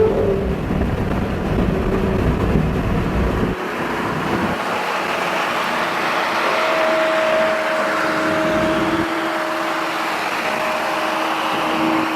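Car engine and road noise at highway speed, a steady drone with a couple of held engine tones. A heavy low rumble drops away sharply about three and a half seconds in.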